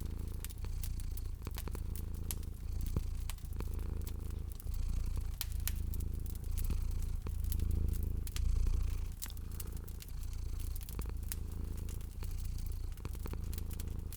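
A domestic cat purring steadily in a low rumble that pulses with each breath, about once a second, over the sharp pops and crackles of a wood fire.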